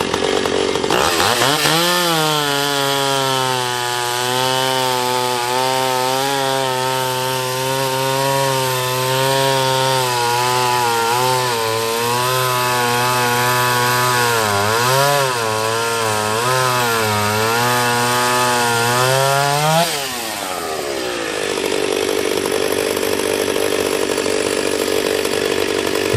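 Chainsaw revved up to full throttle about a second in and held there for about 19 s, its pitch dipping and wavering as it loads in the wood. About 20 s in the throttle is released and it drops back to a lower idle.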